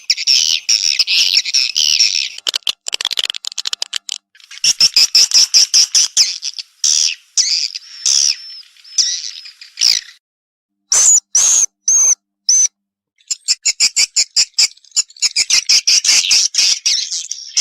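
Swiftlet calls in rapid chittering trills of clicks and chirps, broken by short pauses, with a few separate whistled notes near the middle. This is a swiftlet 'respon' call, the kind of sound played to draw swiftlets.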